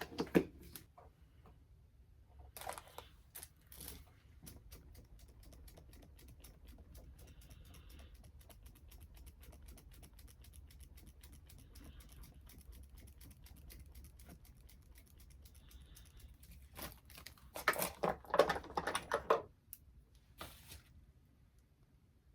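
Quick run of light clicks or taps, several a second, like typing. Louder handling clatter comes about three seconds in and again near the end.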